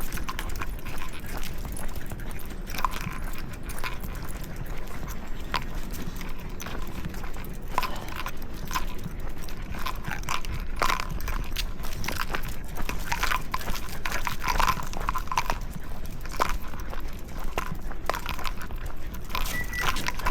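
Dogs out walking: irregular light clicks and scuffs, over a steady low rumble.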